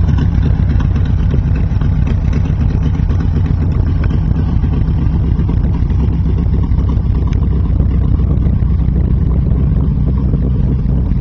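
Small-block Chevrolet 350 V8 in a street rod truck idling with a steady, deep rumble.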